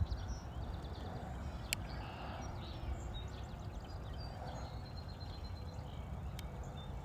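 Outdoor ambience: a steady low rumble, as of wind on the microphone, with scattered small bird chirps and a brief trill high above it.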